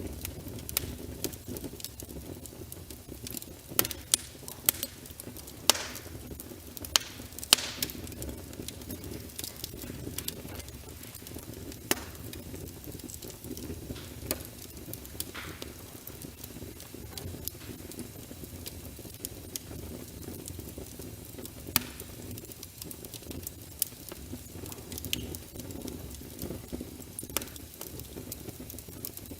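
Wood logs burning in a fireplace: a steady low rumble of flames with irregular crackles and sharp pops, the loudest snaps clustered in the first half.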